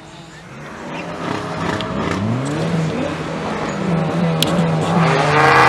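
Car engine revving hard and getting steadily louder; its pitch climbs about two seconds in, holds high, then drops away near the end.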